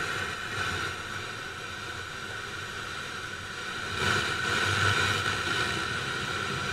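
Steady static hiss from an old car's factory AM/FM stereo radio as the tuning knob is turned, with no station coming in. The hiss gets louder about four seconds in.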